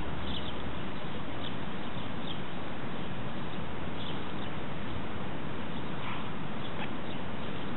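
Steady, even background hiss with a few faint, short bird chirps now and then.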